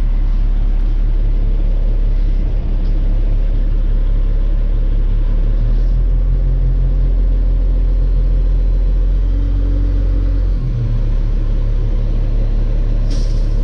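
Dump truck's diesel engine running with the PTO engaged while the body is raised to dump a load. It holds a steadier, higher note from about six seconds in, and drops back a little after ten seconds.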